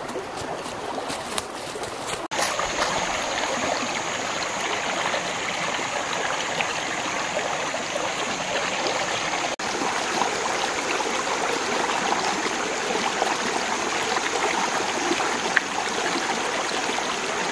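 Water running steadily, like a stream flowing, cut off for a moment twice, a little over 2 seconds in and near the middle.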